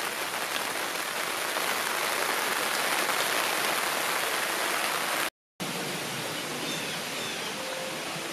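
Steady heavy rain falling on trees and foliage. It cuts out briefly about five seconds in and resumes a little softer.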